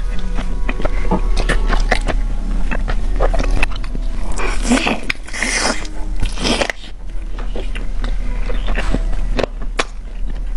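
A person chewing and biting food close to the microphone, with many small wet clicks and smacks and a few louder, noisier bites in the middle.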